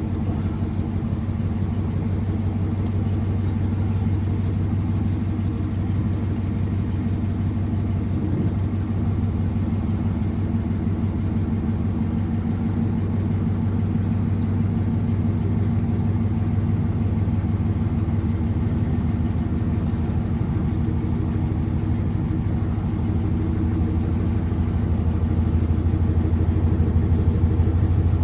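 1957 Ford Thunderbird V8 engine running steadily at low speed during slow manoeuvring. It is running on only the primary two barrels of its four-barrel carburettor, on fresh spark plugs. It gets a little louder in the last few seconds.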